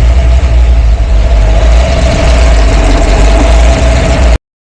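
Supercharged big-block Ford V8 idling steadily with a deep rumble and a steady whine over it. The sound cuts off suddenly about four seconds in.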